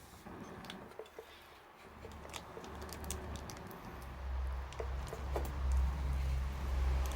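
Campfire crackling with scattered sharp pops, over a low rumble that builds from about two seconds in and is loudest in the second half.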